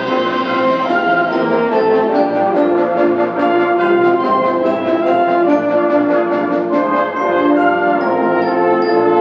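Symphonic band playing, with brass out front over sustained chords.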